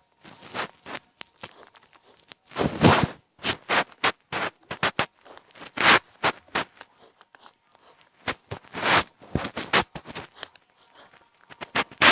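Scratchy strokes of a drawing tool rubbing on paper, in irregular quick bursts of shading or scribbling, some short and some lasting about half a second.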